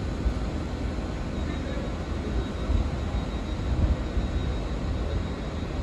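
Railway platform ambience: a steady low rumble with faint voices in the background.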